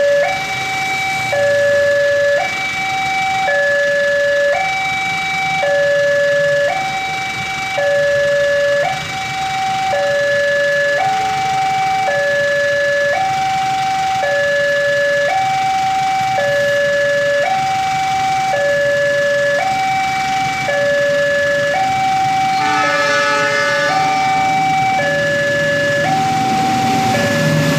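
Railway level-crossing warning alarm sounding steadily: two electronic tones alternate in a repeating high-low pattern, about one high-low cycle every 1.4 seconds.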